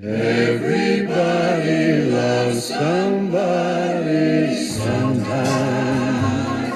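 Music: a backing choir singing held, gliding harmonies over an orchestral pop accompaniment, coming in abruptly.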